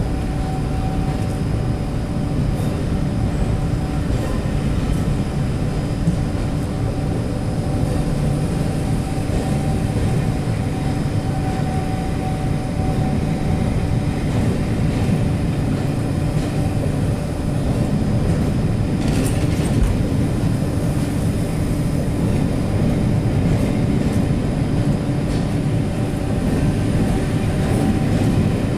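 Train at the platform giving a steady low rumble with a constant hum over it, and a brief higher hiss about two-thirds of the way through.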